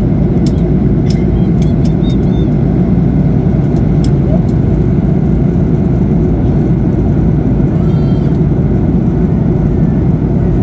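Steady cabin roar of a Boeing 737-800 in flight, engine and airflow noise with its CFM56-7B engines, with a few faint clicks over it.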